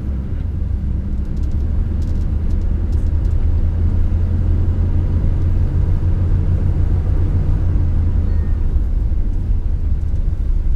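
Camper van's engine and road rumble heard from inside the cab while it drives slowly, a steady low drone that swells slightly over the first few seconds, with a few faint clicks about two to three seconds in.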